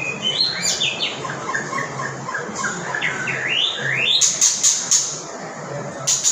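A songbird singing a varied run of chirps and whistled notes, some rising and falling in quick sweeps. A few sharp clicks come about four seconds in.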